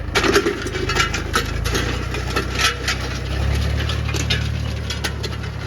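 Mahindra 265 DI tractor's three-cylinder diesel running while pulling a harrow through a field, with frequent sharp rattles and clanks over the steady engine note. About three seconds in, the engine note deepens.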